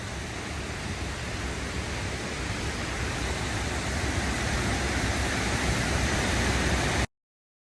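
Looking Glass Falls in heavy flow after a night of rain: a steady, full rush of falling water with a deep rumble underneath, growing slightly louder before cutting off suddenly near the end.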